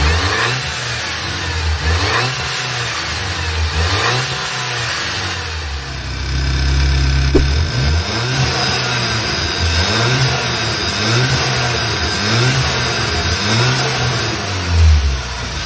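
Turbocharged Audi engine revved over and over in short throttle blips, its pitch rising and falling about once a second, with a spacer just fitted under its turbo valve.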